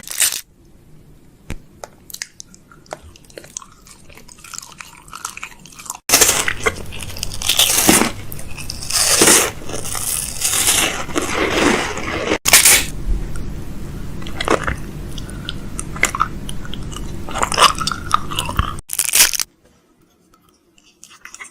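Food packaging and containers handled while a fridge is restocked: crunching, crackling and knocking sounds in several short clips that cut abruptly into one another, busiest and loudest in the middle.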